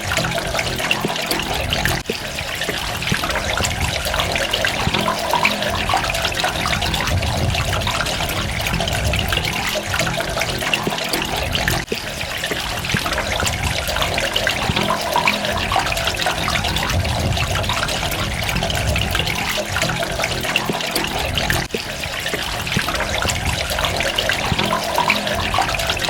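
Water running and splashing continuously, with a busy trickling texture and a level that dips briefly three times.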